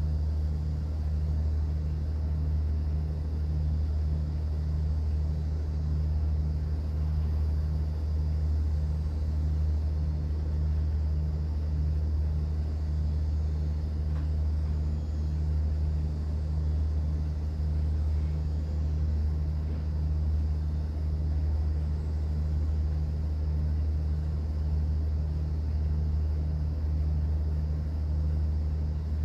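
Steady low drone of a cruise boat's engine running, with a regular throb in the hum.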